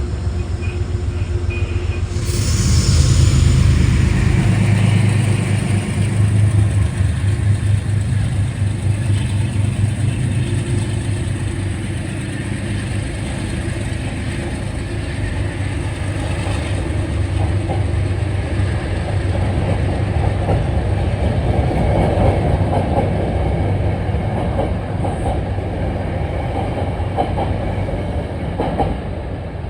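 Metro-North commuter train running through the station at speed: a low rumble that swells a couple of seconds in, a sharp hiss at about the same moment, then wheels clicking rapidly over the rail joints as the cars go by.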